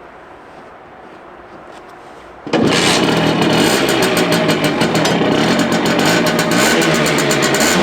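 Simson Schwalbe's single-cylinder two-stroke moped engine catching about two and a half seconds in, then running loudly with a rapid buzzing exhaust beat.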